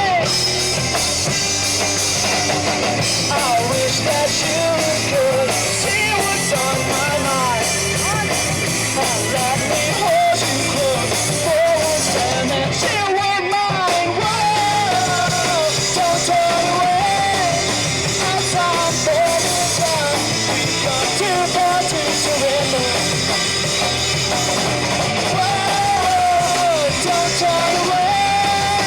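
Live rock band playing with electric guitars, drums and singing.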